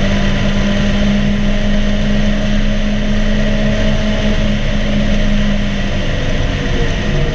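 Mazda MX-5 Miata (NC) 2.0-litre four-cylinder engine pulling at steady high revs along with road noise. About six seconds in, the engine note drops to a lower pitch as the throttle comes off.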